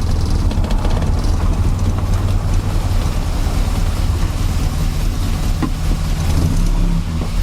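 1970 Morris Minor's 1098 cc A-series four-cylinder engine running steadily with the car in first gear.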